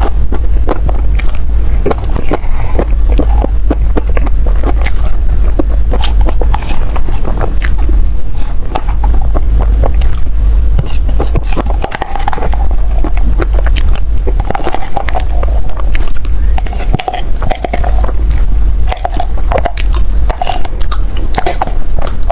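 Close-miked eating of desserts: steady biting and chewing with many sharp wet smacks and clicks, over a constant low rumble.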